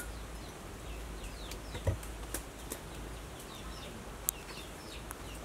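Small birds chirping: many short falling chirps, several a second, over a steady low hum. A few sharp knocks, the loudest about two seconds in.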